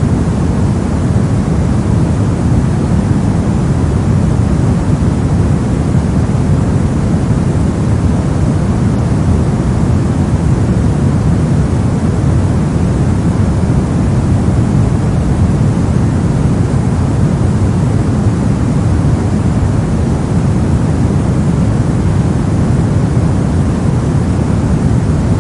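Soft continuous noise for sleep and focus, an even hush with no events or changes. It is deep rather than hissy, its weight in the low end with little treble.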